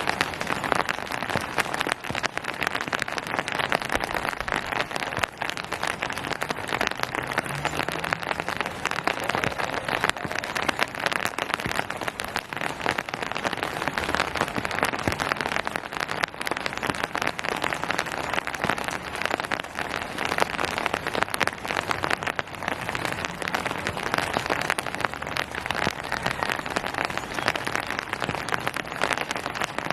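Steady rain falling on hard surfaces, a dense patter of many small drop impacts.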